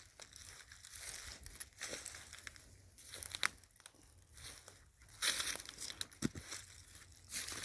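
Footsteps crunching through dry leaf litter on the forest floor, an irregular run of crackling steps that gets louder about five seconds in.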